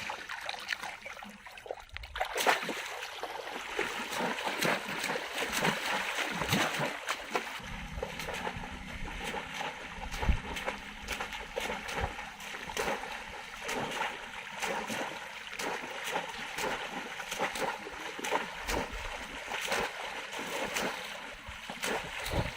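Shallow river water splashing and sloshing over and over, with many short sharp splashes, as it is worked with a polo bamboo fish trap.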